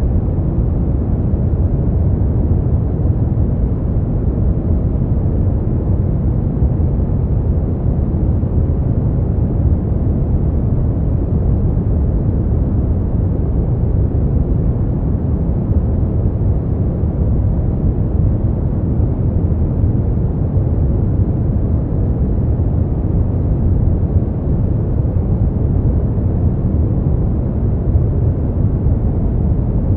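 Continuous synthetic noise, steady and unchanging, weighted heavily to the low end: a deep rumbling hush with no high hiss, closer to brown noise than true white noise.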